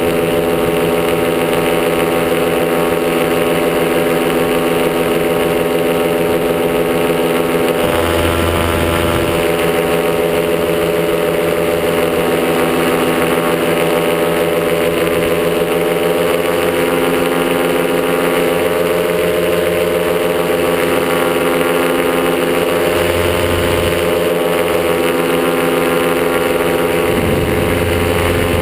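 Top80 paramotor's single-cylinder two-stroke engine running steadily in flight, with a near-constant tone and slight shifts in pitch.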